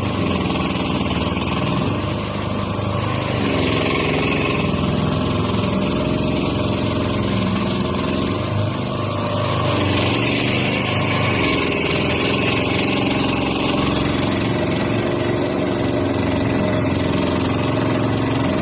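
The 6.5 hp 212cc single-cylinder four-stroke engine of a long tail mud motor running continuously on a small boat. Its speed shifts a couple of times and picks up about ten seconds in.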